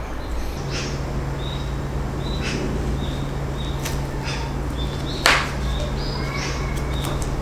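Small birds chirping repeatedly over a steady low hum, with one sharp tap about five seconds in.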